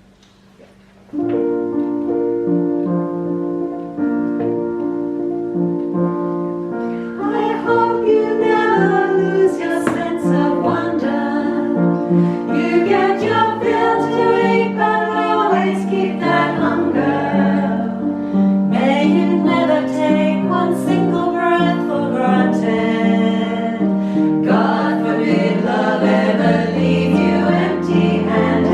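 Choir singing with keyboard accompaniment: sustained chords come in about a second in, and the voices join around seven seconds in.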